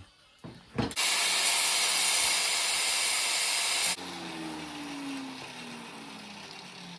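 Wet tile saw running loudly for about three seconds, then switched off, its motor winding down with a falling whine.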